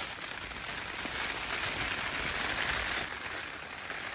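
Hail and rain pattering on the tent's fabric as a dense, even hiss that swells about two seconds in and eases near the end.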